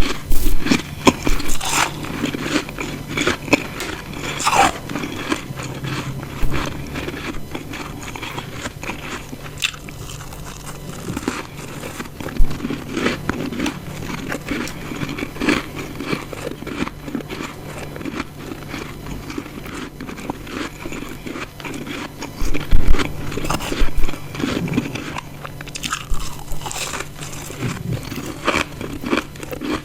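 Close-miked biting and chewing of ice chunks: crisp, crackling crunches all through, with the loudest bites right at the start and again about three-quarters through.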